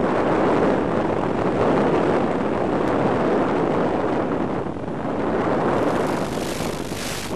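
Steady rush of airflow over the on-board camera microphone of an FPV RC plane in flight, with no distinct motor tone; a brief brighter hiss swells near the end.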